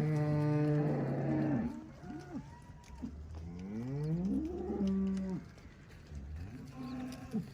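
Dairy cows mooing: a long moo fading out in the first two seconds, then several shorter moos, one sliding up in pitch in the middle, and a fainter one near the end.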